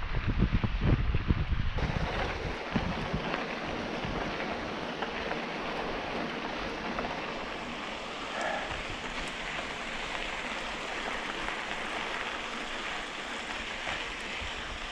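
Steady hiss of wind and bicycle tyres rolling along a trail while riding. There is heavy wind buffeting on the microphone for the first two seconds.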